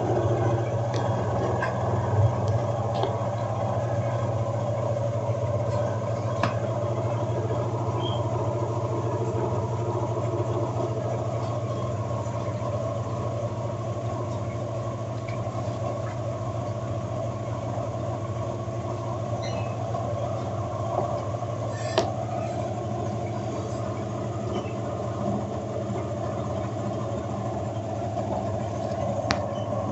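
Electrolux LT10B washing machine running with a steady motor hum, with a few faint clicks along the way.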